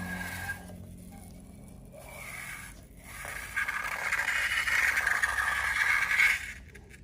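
Slime being scraped and stirred, a rasping scrape that comes in stretches with short pauses, louder in the middle few seconds and dying away near the end.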